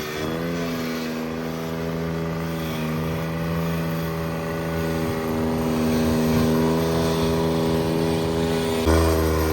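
Cub Cadet 782 garden tractor engine running at a steady speed; its pitch wavers briefly at the start, and a deeper rumble joins near the end.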